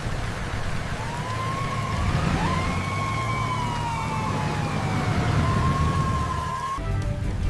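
Emergency vehicle siren, a wavering tone sliding slowly up and down, over a low rumble. It cuts off near the end as music comes in.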